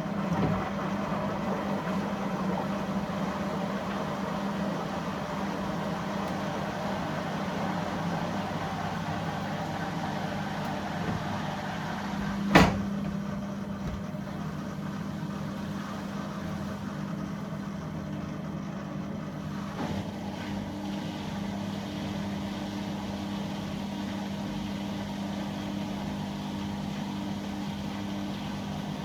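Dishwasher running a quick cycle with a dishwasher tablet: a steady pump hum under a wash of water noise, with one sharp click about halfway through.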